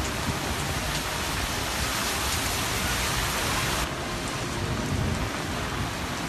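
Heavy rain pouring down in a dense, steady hiss, with a slight change in its sound about four seconds in.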